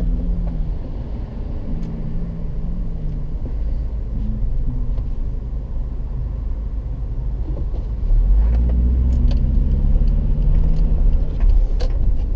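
Car engine and road rumble heard from inside a moving car, growing louder about eight seconds in. A few faint clicks come near the end.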